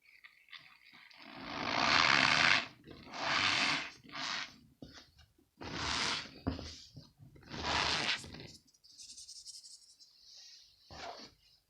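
Packed cornstarch balls being squeezed in the hands, giving five drawn-out squeaky crunches. The first is the loudest, and a short one comes near the end.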